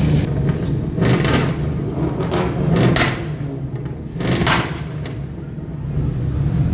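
Car engine running with a steady low rumble, with a few short hissing bursts of noise about a second, three seconds and four and a half seconds in.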